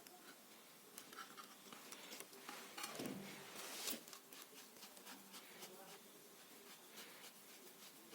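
Faint handling sounds: scattered light clicks and taps, with a short rubbing swish about three seconds in.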